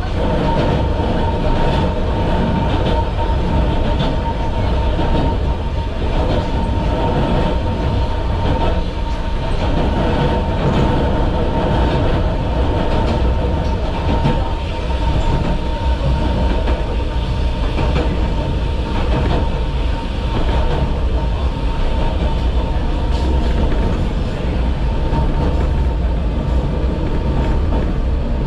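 Yokkaichi Asunarou Railway narrow-gauge (762 mm) electric train running along the track, heard from its driver's cab. A steady rumble of wheels on rail, with a constant high hum and occasional clicks.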